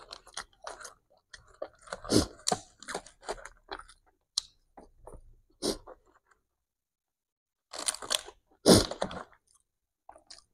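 Close-up chewing and crunching of a mouthful of nasi Padang eaten by hand, in short irregular crackles, with fingers rustling and scraping in a cardboard takeaway box. A louder cluster of crunches comes about eight seconds in.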